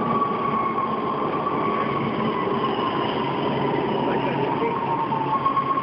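Metro subway train running on the rails: a steady rumble of wheels and track with a high, held whine that sags slightly in pitch.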